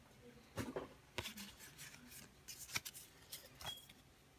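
Trading cards being handled and slid apart, a string of faint papery clicks and rustles, with a few sharper snaps about a second and under three seconds in.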